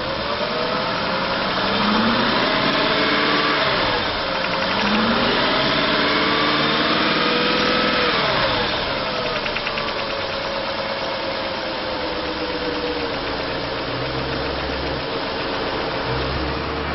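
8.1 liter V8 engine of a GMC Sierra 2500 HD running and being revved twice, the second rev held for a few seconds, then settling back to a steady idle.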